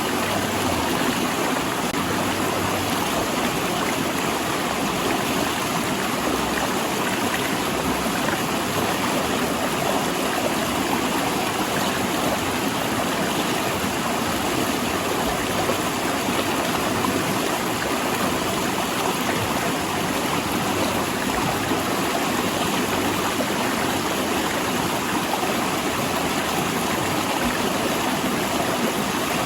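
River water rushing and splashing over and between large rocks, a steady, even rush.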